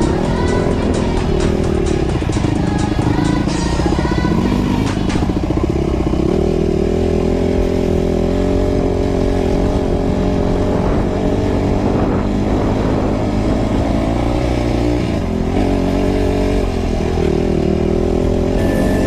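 Motocross dirt bike engines running and revving, with music playing over them.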